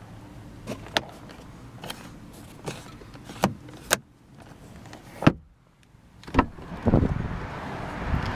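Car interior fittings being handled: a string of about eight sharp clicks and knocks, the loudest a little past five seconds in. From about seven seconds in, a car door opens and outside noise rises into a steady rush.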